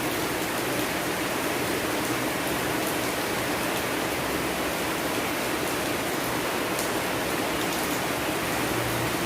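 Steady rain, an even hiss with a few faint drop ticks now and then.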